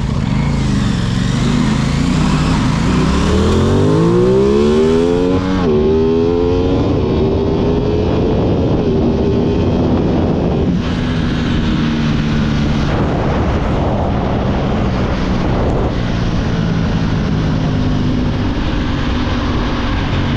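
Aprilia 660 parallel-twin motorcycle engine accelerating hard, its note climbing steadily, then dropping sharply at an upshift about six seconds in. It pulls up again more gently, then runs at a steadier, lower note with wind noise.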